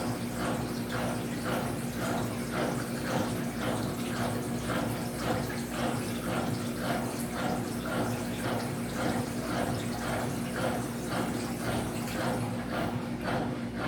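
Electrolux LF75 washing machine with water churning in its tub in regular pulses, about three a second, over a steady low hum.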